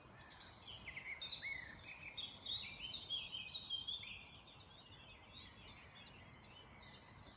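Several woodland birds singing and chirping at once in an early-morning chorus. The song is busy for the first half, then thins to a few sparse calls over a steady low background rumble.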